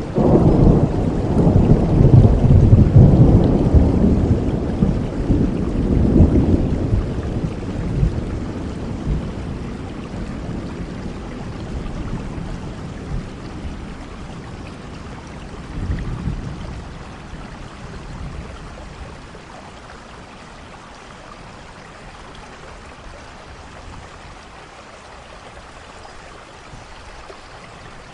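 Thunderstorm: a long roll of thunder rumbling over steady rain for the first several seconds, a shorter, fainter rumble about halfway through, then rain alone.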